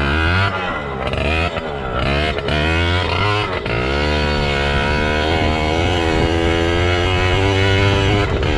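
2007 Yamaha PW80 pit bike's 80cc two-stroke engine revving up and down several times, then held at high revs.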